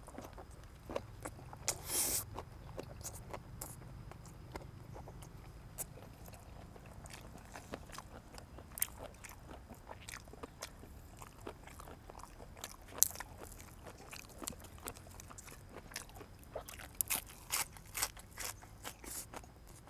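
A person chewing and crunching food up close: boiled pork head meat, ear and tongue eaten with fresh raw vegetables. Irregular crunches and wet chewing clicks throughout, with a louder crunch about two seconds in and a run of crunches near the end.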